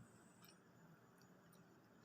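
Near silence: faint room tone with a few faint short clicks.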